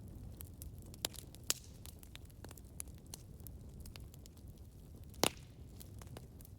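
Campfire burning: a low steady rumble of the flames with scattered sharp crackles and pops of burning wood, the loudest pop about five seconds in.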